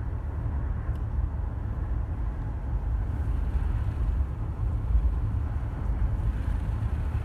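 Steady low rumble of a moving car heard from inside, with road noise and wind buffeting through an open window.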